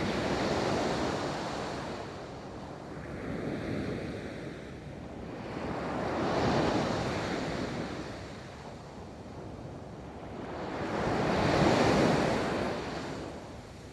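Ocean waves rolling in and breaking on a beach. The surf swells and fades in repeated surges, the loudest of them near the end.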